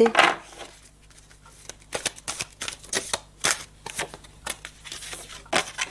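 A deck of cards shuffled and handled by hand: a run of irregular soft card snaps and taps, about two a second.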